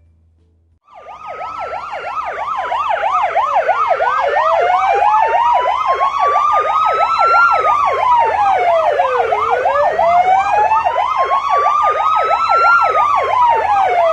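Police-style siren sounding: a slow wail rising and falling about every five seconds, with a fast yelp warbling over it about four times a second. It starts about a second in and grows louder over the next few seconds.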